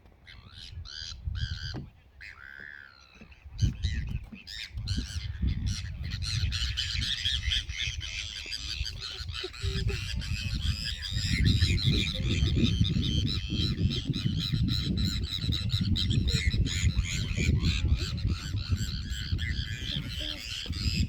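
A flock of waterfowl on a lake honking and squawking, a dense chorus of calls that thickens about six seconds in, over a steady low rumble.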